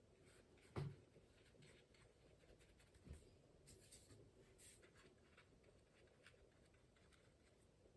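Faint paintbrush strokes and dabs on watercolour paper, with a soft knock about a second in.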